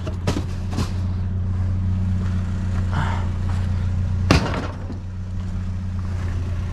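A steady low engine hum runs underneath, with a few light clicks near the start and one sharp metallic clank about four seconds in, as scrap is handled in the dumpster.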